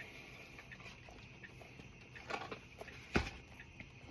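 Someone eating a fried chicken sandwich: faint chewing and handling noises, with one sharp click about three seconds in.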